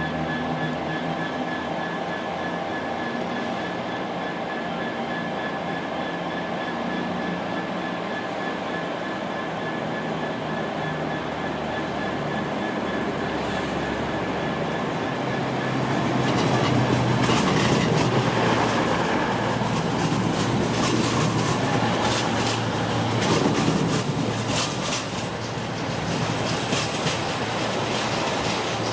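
Passenger train moving through a station. A steady hum and whine of the train's equipment first, then about halfway a louder rumble as the wheels run over the track, with clicks and squealing.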